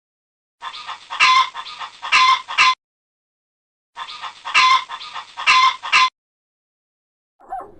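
An animal's calls: a burst of about two seconds, repeated identically after a second of silence.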